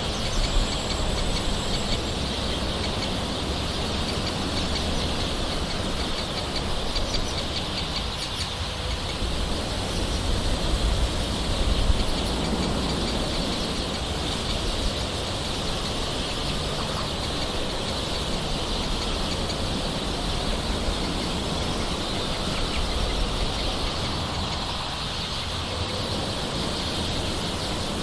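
Steady gentle rain falling, with birds calling over it and a short high thin call near the start.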